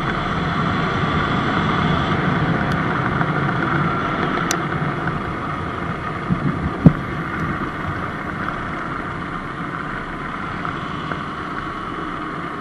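Surron Light Bee electric dirt bike under way: steady drivetrain and tyre noise with wind on the microphone. A single sharp knock comes about seven seconds in.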